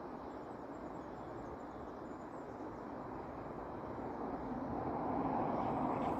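Steady rush of flowing river water, swelling louder about four seconds in.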